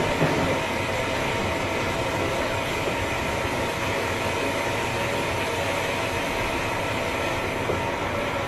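Running noise of a Tobu 9000 series chopper-control electric train, heard inside the car: a steady rumble of wheels on rail with several steady whining tones over it. The car is known for an unusually odd motor sound.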